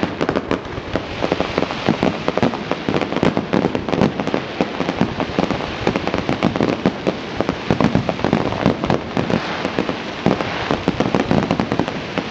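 Fireworks display: a dense, continuous barrage of bangs and crackles, many reports a second without a break.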